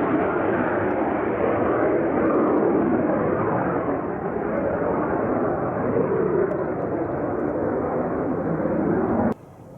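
Military jet aircraft engine noise: a loud, steady rush that cuts off suddenly near the end.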